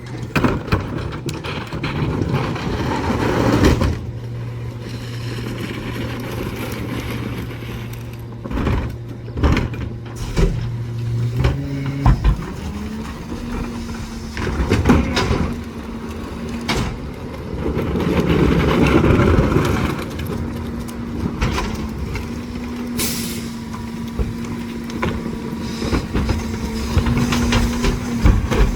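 Garbage truck at work: its engine runs at a steady raised speed with a hum that steps up in pitch about twelve seconds in, over repeated metal clanks and bangs. A short hiss of air sounds a little past the middle.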